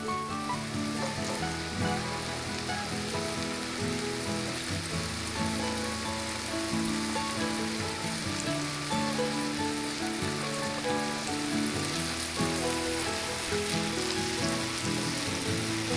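Butter and chopped apples frying in a cast iron pan, a steady sizzle, with background music playing over it.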